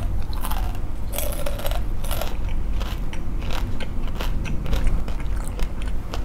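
A person chewing a crunchy snack close to the microphone, with irregular crisp crunches.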